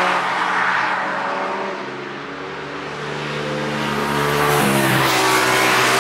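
Cars driving hard on the Nürburgring Nordschleife, engines running at high revs. The sound fades a little around two seconds in, then grows louder again as another car comes on, its engine note changing abruptly about five seconds in.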